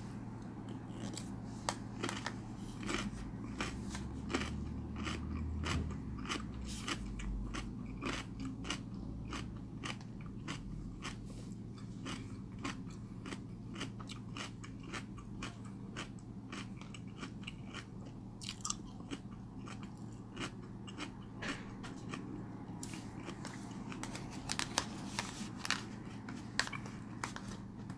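A man chewing raw spoon worm (gaebul) right at the microphone: many sharp chewing and crunching clicks at an irregular pace, with a low steady hum underneath.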